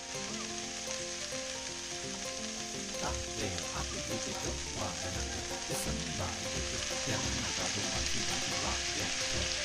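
Wood ear mushrooms and onion sizzling in hot oil in a frying pan, a steady hiss. From about three seconds in there are irregular light knocks at the pan.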